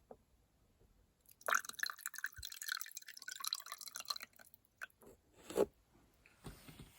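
Liquid being poured into a container for about three seconds, the pitch of the filling rising as it fills, followed by a few light knocks.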